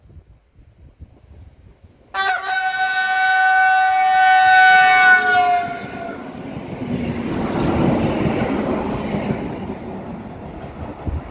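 Polish EN57 electric multiple unit sounding its horn, the long Rp1 "attention" warning signal, held for about four seconds from about two seconds in. Its pitch drops slightly at the end as the train passes (Doppler shift). The rumble and clatter of the train's wheels on the rails follow as the cars run by, cutting off suddenly near the end.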